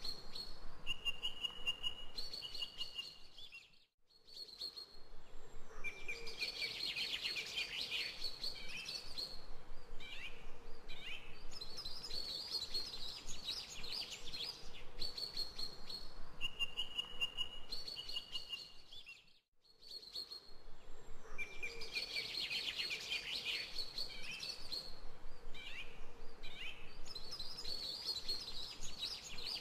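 Songbirds chirping and singing as a looped background ambience recording, repeating about every fifteen seconds with a brief gap each time.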